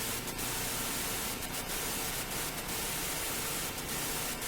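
Steady static hiss on a radio or recording channel, with a few faint brief crackles.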